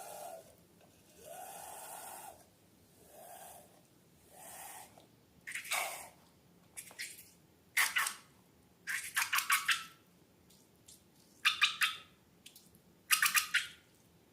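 Balloons and slime being handled. Several soft, drawn-out rubbery squeaks come first, then from about halfway sharper crackly squelches in quick groups of several.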